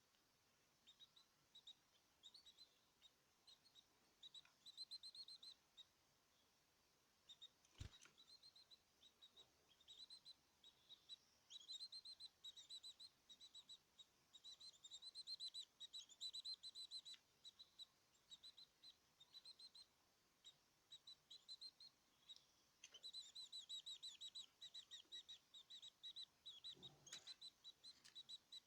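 Small caged birds chirping and twittering in quick, rapid trills, in bursts with short pauses. A single sharp click about eight seconds in.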